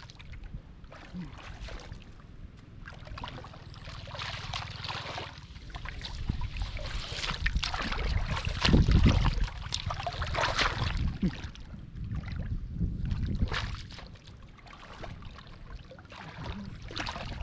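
Shallow muddy water splashing and sloshing irregularly as hands grope for fish in a flooded rice field, loudest about nine seconds in.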